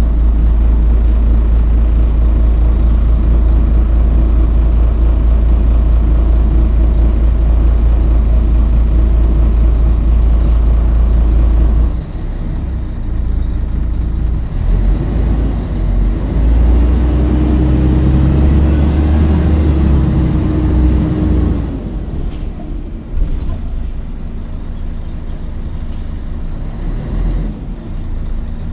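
Scania L113CRL bus's diesel engine running hard with a heavy low rumble, easing off about twelve seconds in, then pulling again with a steady whine for a few seconds before settling lower. A brief sharp noise sounds about 23 seconds in.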